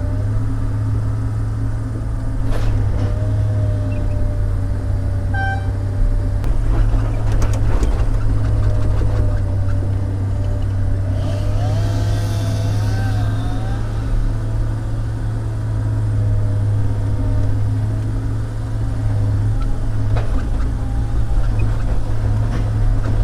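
Log loader's diesel engine running under load with a steady drone and a hydraulic whine that wavers and glides in pitch as the boom works logs, with scattered knocks. A short beep sounds about five seconds in, and a hiss about eleven seconds in.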